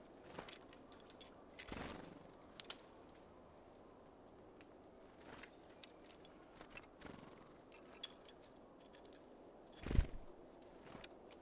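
Small birds at a feeder: scattered light taps and clicks, a few faint high chirps, and one louder thump near the end.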